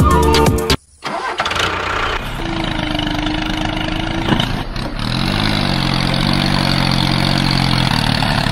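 Engine sound starting up and running, its pitch rising about five seconds in and then holding steady.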